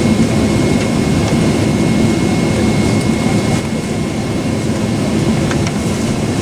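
Steady cabin noise of a Boeing 767-400 airliner's jet engines heard from inside the passenger cabin: a loud, even rumble with a thin, constant high whine above it.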